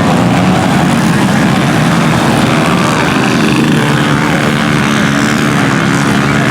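A pack of small 110cc-class single-cylinder four-stroke pit bikes racing, several engines revving at once, their notes rising and falling and overlapping.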